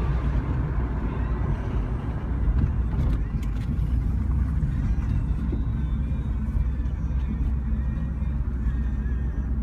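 2002 Ford Thunderbird's V8 engine and tyre noise heard from inside the car as it drives along at a steady pace: a constant low rumble.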